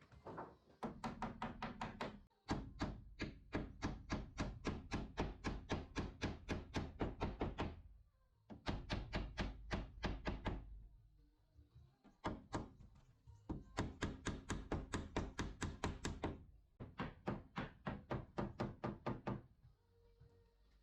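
Rapid, even hammer strikes, about four or five a second, in runs of a few seconds with short pauses between.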